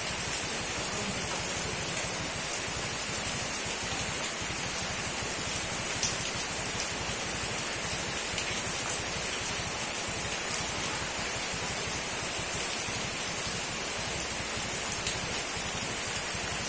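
Steady rain falling: an even hiss with occasional faint drop taps.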